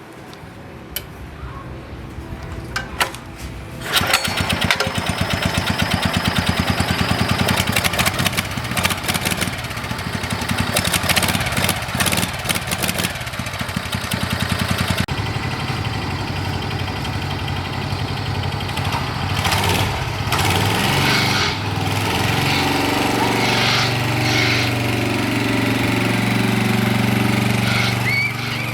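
Small engine of a homemade three-wheel go-kart comes in loudly about four seconds in and keeps running with rapid firing pulses. It settles into a steadier, lower note in the last few seconds.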